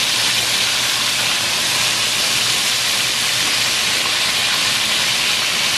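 Coated chicken pieces deep-frying in a pot of hot oil, partway through cooking: a steady, dense sizzle.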